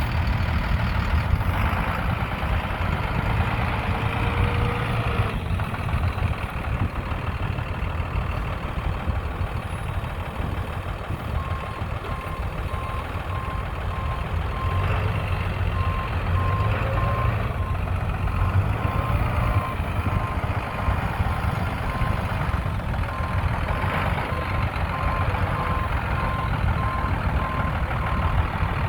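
2005 International 7400 diesel truck running steadily. A little over a third of the way in, a reversing alarm starts beeping in an even on-off rhythm and keeps on until nearly the end.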